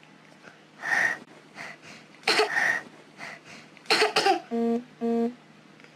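A person coughing several times, followed near the end by two short identical electronic beeps about half a second apart.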